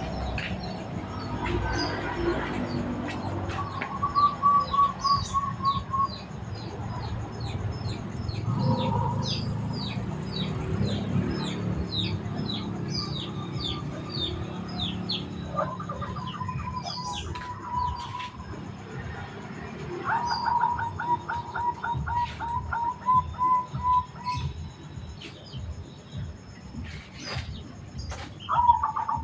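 Zebra dove (perkutut) cooing in quick pulsed phrases three times, while other small birds chirp in rapid high-pitched series.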